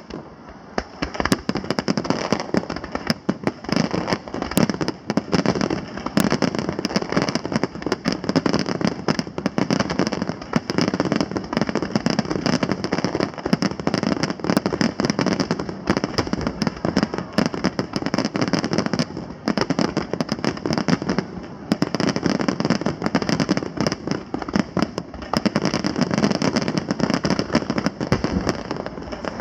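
Aerial fireworks going off in a dense, continuous barrage of sharp crackles and bangs.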